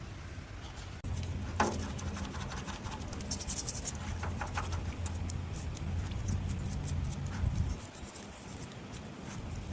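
Repeated scraping and clicking of hand work on metal parts, over a low steady hum that starts suddenly about a second in and drops away near the end.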